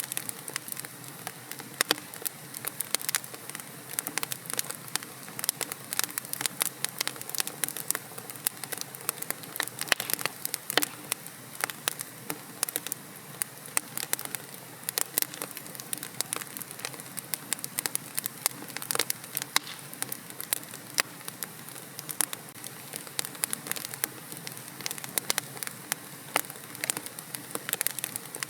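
Fireplace fire crackling, with frequent irregular sharp pops over a soft steady hiss.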